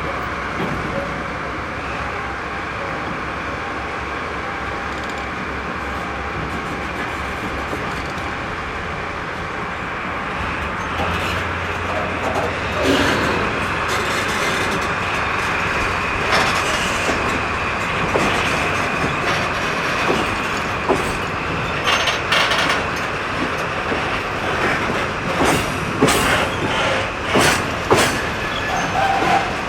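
Freight train of empty cement wagons moving off behind electric locomotives, with a low hum setting in about a third of the way through. Wheels clack over the rail joints, the clacks coming more often and louder toward the end as the train gathers speed.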